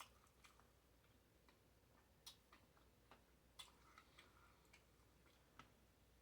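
Faint, irregular small clicks of someone chewing a burger with the mouth, about half a dozen short clicks at uneven gaps over a low hum.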